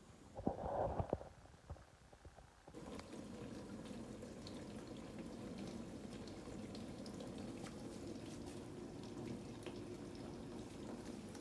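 A few sharp clicks and a brief clatter, then, from just under three seconds in, the steady rush of water as the Siemens SN63EX14VE dishwasher fills and starts spraying at the start of its wash cycle.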